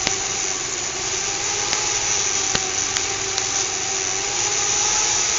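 Small fischertechnik electric motor driving the monorail carriage's rollers, running with a steady whine over a hiss, with a few sharp clicks along the way.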